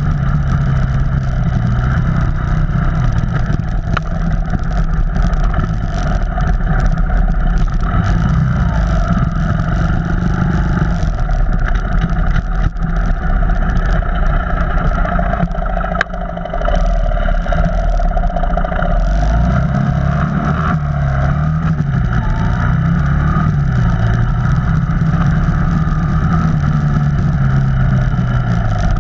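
Off-road vehicle engine running steadily, its revs rising and falling, with a few sharp knocks.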